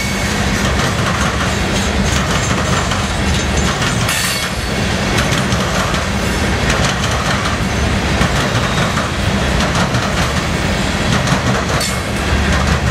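CSX freight train's cars rolling past at speed: a steady rumble of steel wheels on the rails, with a sharper clank about four seconds in and again near the end.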